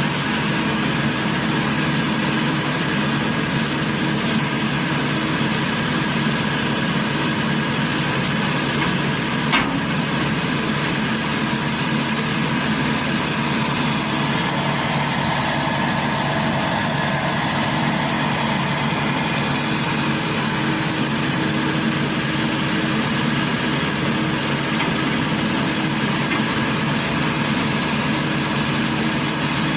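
Rice combine harvester's engine running steadily, with a single sharp click about ten seconds in.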